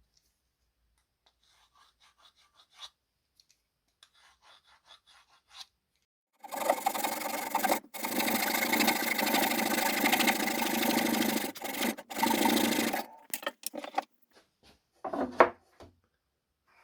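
Abrasive hand work on wood, a rough rubbing or scraping. It starts as faint scratchy strokes, then runs loud and continuous for about six seconds with two brief breaks, and ends in a few short strokes.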